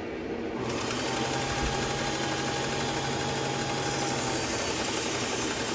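Motor-driven belt sharpener running a finer-grit abrasive belt, with a knife edge ground against it to refine the edge and work off the burr. About half a second in, the steady motor hum is joined by a much louder, even grinding hiss.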